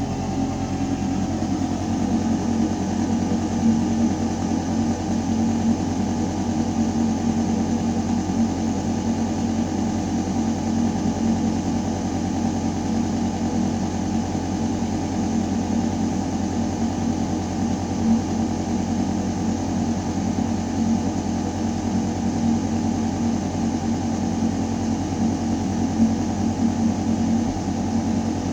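Building ventilation system running in a ventilation shaft: a steady, constant mechanical hum of air moving through metal ductwork, with a low drone and a few steady tones over a rushing-air hiss.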